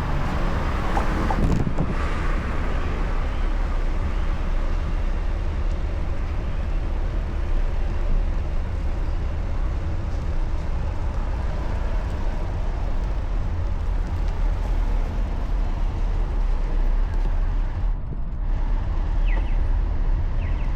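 Steady city traffic noise heard from a moving bicycle, under a constant low rumble.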